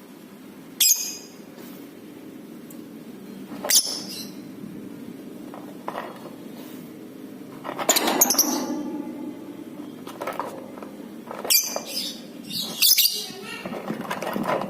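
Lovebirds calling in short, shrill, high-pitched chirps and squawks, coming in separate bursts about five times with the longest about eight seconds in, over a steady low hum.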